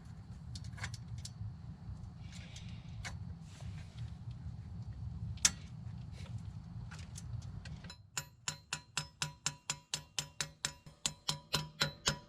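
A low steady hum with a few scattered clicks. From about two-thirds of the way in comes a rapid run of ringing metal-on-metal hammer strikes, about four a second.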